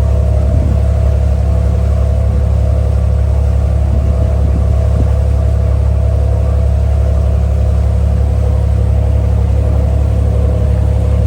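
Ferry engine running steadily at cruising speed, heard on board as a loud, unchanging low drone with a steady hum above it.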